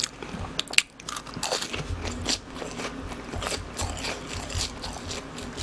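A person biting into and chewing BHC cheese balls, fried glutinous-rice dough balls filled with cheese: a steady run of crunching, clicking chews, close to the microphone.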